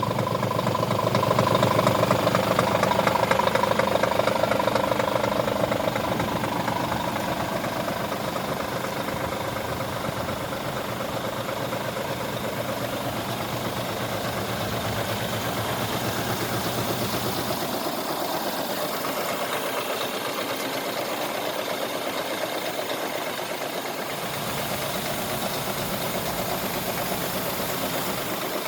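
Scania R 450 truck's 13-litre inline-six diesel engine idling. It is louder for the first few seconds, then settles to a steady idle.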